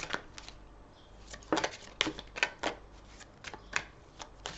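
A deck of Lenormand cards being handled and shuffled: a run of irregular, crisp card flicks and taps.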